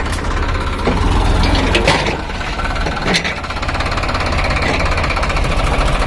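Tractor diesel engine running steadily with a deep throb, with short sharp sounds about two and three seconds in.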